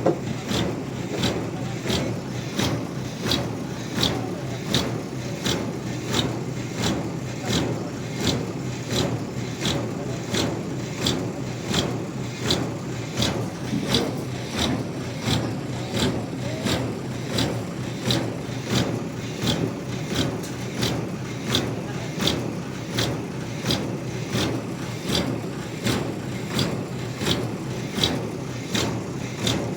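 Sawmill machinery running steadily with a low hum, and a sharp click repeating evenly about twice a second.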